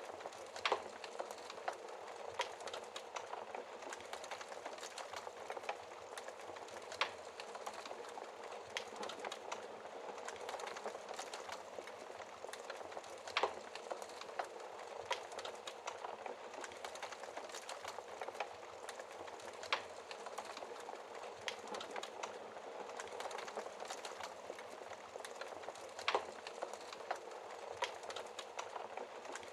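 Wood fire burning in a fireplace, crackling steadily with many small snaps and a sharper, louder pop every six seconds or so.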